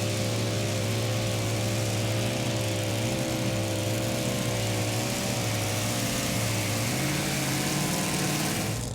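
Super modified two-wheel-drive pulling truck's engine held at high revs under load down the track, its pitch steady with a slight waver, dropping away abruptly near the end as the run ends.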